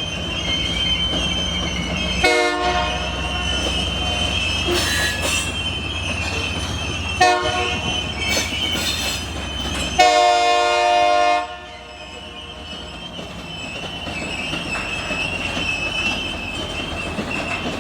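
Union Pacific diesel locomotive moving slowly with its wheels squealing on the rail in a steady high tone over the engine rumble. The horn sounds three times: two short blasts, then a longer one of about a second and a half, after which the engine rumble drops away.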